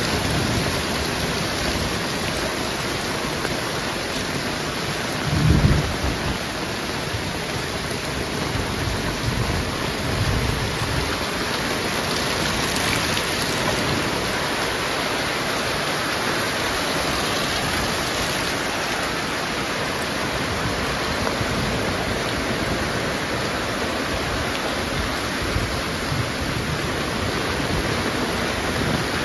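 Heavy rain falling steadily, a dense even hiss. About five seconds in there is a brief, loud low rumble.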